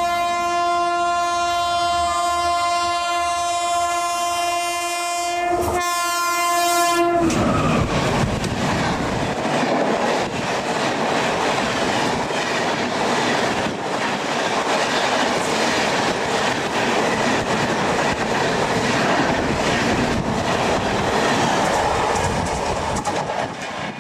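An Indian Railways locomotive horn sounds one long, single-pitched blast with a short break near its end, stopping abruptly about seven seconds in. Then an express train rushes past at speed, its wheels clattering over the rail joints.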